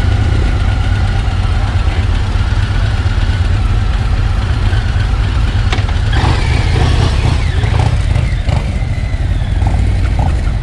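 Harley-Davidson motorcycle engines running as a steady low rumble.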